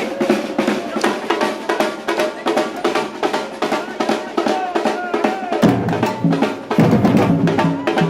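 Batucada samba drumming: a dense, fast rhythm of snare and other hand-played drums. Deep bass drums come in loudly about five and a half seconds in.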